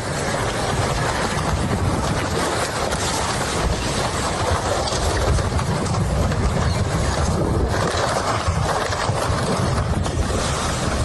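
Floodwater rushing past in a steady, unbroken roar, with a heavy low rumble.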